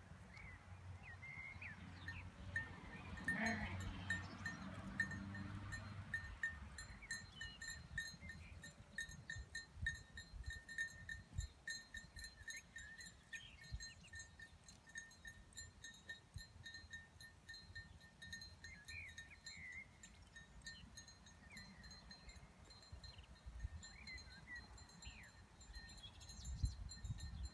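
Faint outdoor ambience of small birds chirping, with a high call repeated several times a second.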